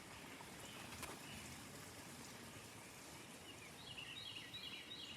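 Faint outdoor background hiss, with a bird singing a quick run of short, repeated chirps near the end.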